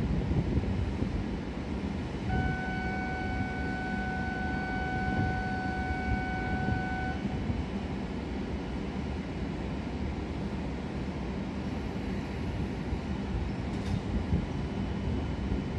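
E7-series shinkansen standing at the platform, its onboard equipment humming steadily. About two seconds in, a single steady electronic tone sounds for about five seconds and then stops.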